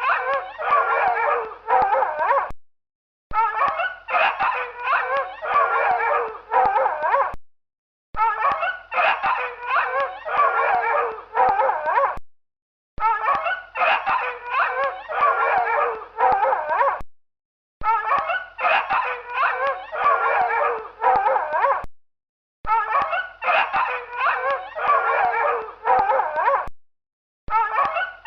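Dog barking and howling in quick, overlapping calls, a recording of about four seconds played over and over with short silent breaks between repeats.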